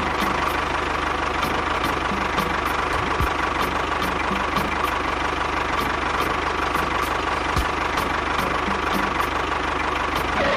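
Engine idling steadily, with a faint regular knocking beat.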